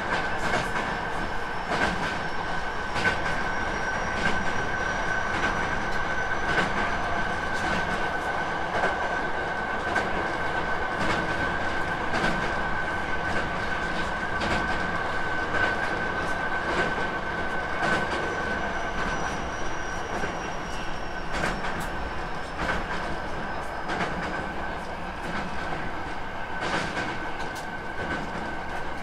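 Hankyu 9300 series electric train running at speed. Wheels click repeatedly over rail joints under a steady rumble, with a steady high whine held throughout.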